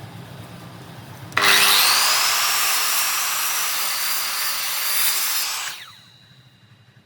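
Electric power tool working wood: it starts loud and sharply about a second in, runs steadily for about four seconds, then is switched off and winds down with a falling tone.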